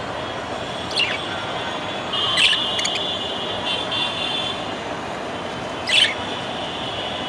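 Pet budgerigar chirping: three short sharp calls about a second, two and a half and six seconds in, with a held high whistled note in between, over a steady hiss.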